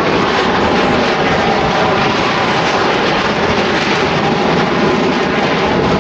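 Two F/A-18 Super Hornet jets, each with twin turbofan engines, making a slow, nose-high pass. Their engines give loud, steady jet noise.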